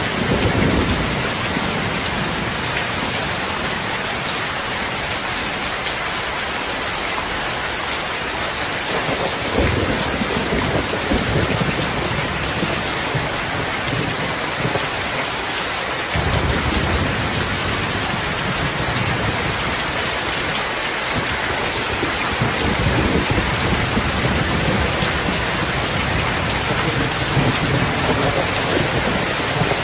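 Heavy rain falling steadily, with low rolls of thunder that swell about ten seconds in, again from around sixteen seconds, and through the last few seconds.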